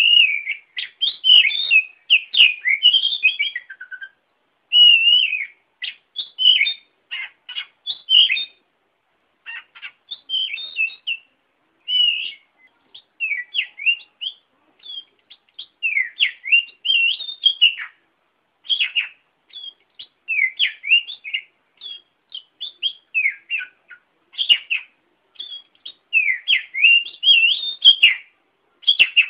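Oriental magpie-robin (kacer) song: quick, varied whistles and chirps in short phrases, each broken off by a brief pause, repeating throughout.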